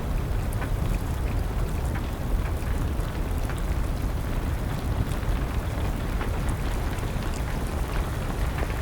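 Steady rain falling, with a low rumble underneath and a wood fire crackling in scattered sharp pops.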